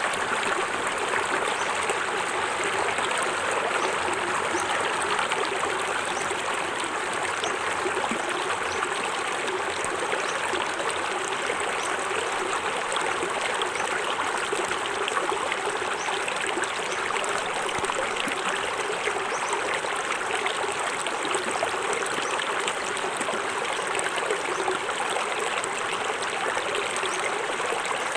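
Small forest waterfall: water falling and running over rocks into a stream, a steady even rush with no breaks.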